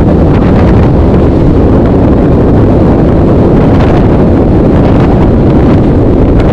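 Strong gale-force wind buffeting the microphone: a loud, continuous low rumble with surges from the gusts.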